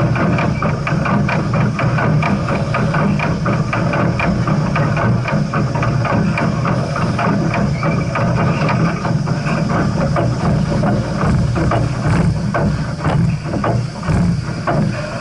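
Steam train in motion: a steady low rumble with many rapid rattles and knocks over it.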